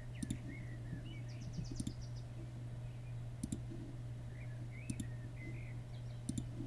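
Sparse, faint computer mouse clicks over a steady low electrical hum, with faint short chirps in the background.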